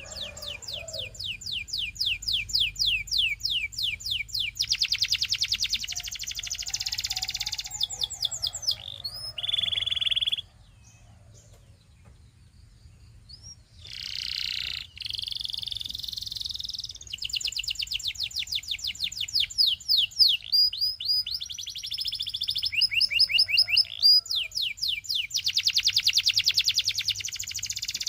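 Canary singing in long, fast trills of rapidly repeated high notes. The song pauses for a few seconds about halfway through, then starts again.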